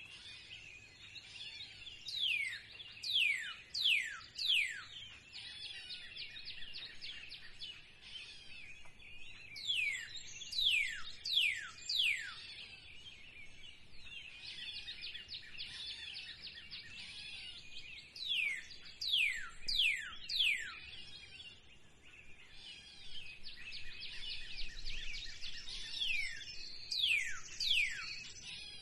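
Spring birdsong: one bird repeats a phrase of three to five sharply falling whistles about every eight seconds, over a steady twittering chorus of other songbirds.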